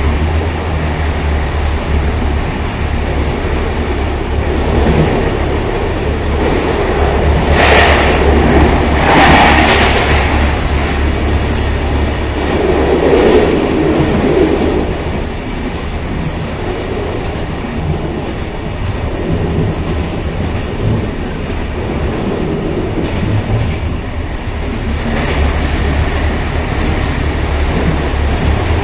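Railcar running along the track: a steady low rumble with rail noise, and louder rushes of higher-pitched noise about eight and ten seconds in.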